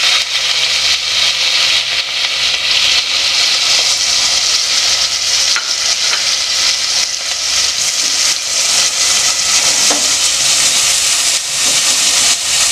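Chopped onions sizzling loudly and steadily in hot oil in an aluminium pot, with small crackles through the hiss. Near the end, diced raw potatoes go in and the sizzling carries on.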